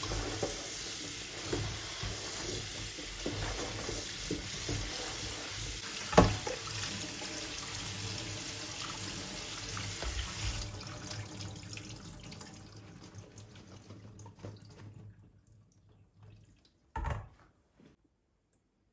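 Kitchen tap running into a sink, shut off about ten seconds in, leaving a few trickles. A sharp knock sounds about six seconds in, and a dull thump comes near the end.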